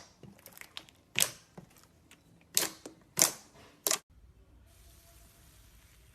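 Slime popping and clicking: a few sharp pops, four of them loud and spaced roughly a second apart. About four seconds in, the sound cuts off abruptly to a faint steady hiss.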